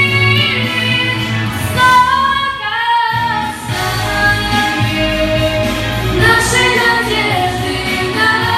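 Female voices singing a pop song over a recorded backing track with a steady bass line.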